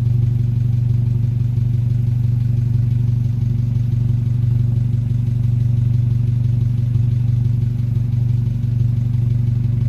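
Car exhaust fitted with a downpipe and AWE Track cat-back exhaust, the engine idling at a steady, low-pitched drone with no revs.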